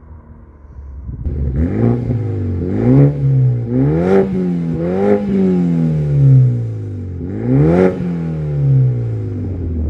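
BMW 328i F30's 2.0-litre turbo four-cylinder engine, muffler removed and running dual 76 mm outlets, idling and then revved repeatedly from about a second in: several free-revving blips rising and falling in pitch, with a sharp crack at some of the peaks.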